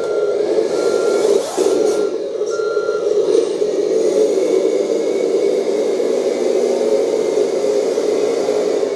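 1/14-scale RC 8x8 hydraulic dump truck reversing: a steady hum from its drive, with a reversing beeper giving short even beeps that stop about three seconds in while the drive runs on.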